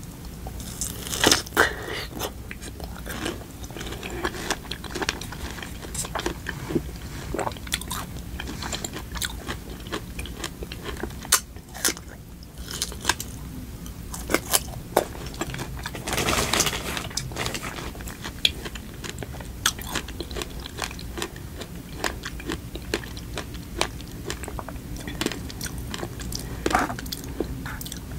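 A person biting and chewing fresh strawberries, with many small crunchy clicks. The loudest bites come about a second in and again around sixteen seconds in.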